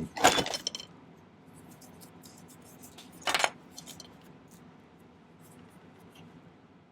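Small metal tools and wire being handled on a jeweller's bench: one sharp click or clatter about three and a half seconds in, followed by a few faint ticks.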